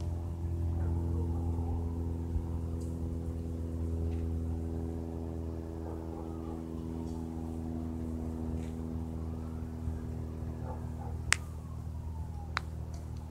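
Small single-engine propeller plane (Cessna) droning steadily overhead, slowly fading as it moves away. A faint tone rises and falls twice, like a distant siren, and there are a few sharp clicks near the end.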